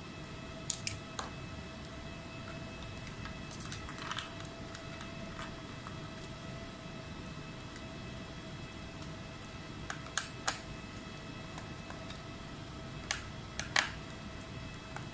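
Scattered sharp clicks and taps from handling a laptop and small tools during repair, in small clusters, over a steady faint whine.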